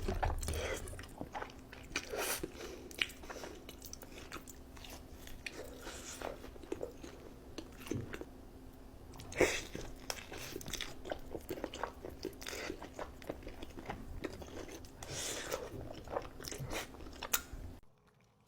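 Close-miked eating: someone biting into and chewing crunchy food, with many crisp crunches, the sharpest about nine and a half seconds in. It cuts off abruptly shortly before the end.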